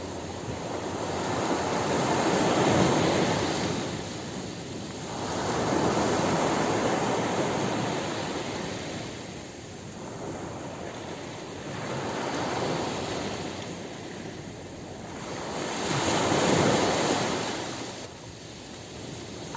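Ocean surf breaking on a beach, a steady wash of water that swells and ebbs as about four waves roll in and break.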